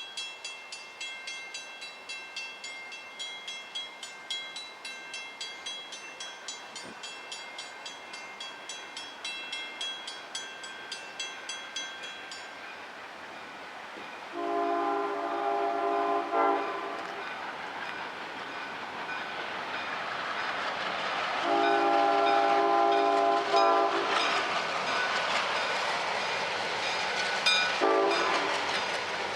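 A bell rings about three strikes a second for roughly twelve seconds and then stops. A diesel locomotive's horn then sounds two long chords and a shorter third one, over the growing rumble of the approaching train.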